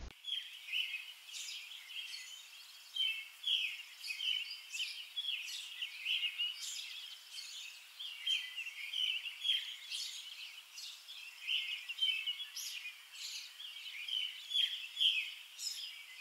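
Birds singing outdoors: a busy chorus of high chirps and short trills, several a second without a break.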